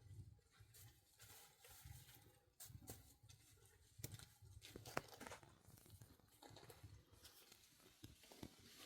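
Faint rustling with scattered light clicks and knocks, the sharpest click about five seconds in.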